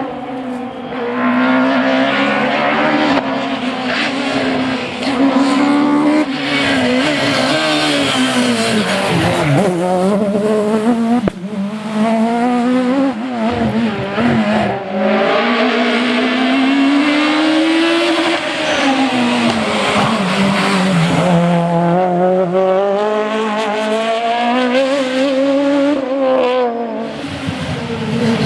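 Rally car engine driven hard, revving up through the gears and dropping back again and again as the driver lifts and brakes for corners.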